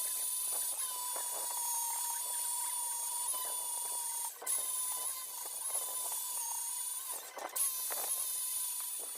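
A high-speed power tool running with a steady high-pitched whine that wavers slightly in pitch, briefly dropping out about halfway through and again near three-quarters of the way through.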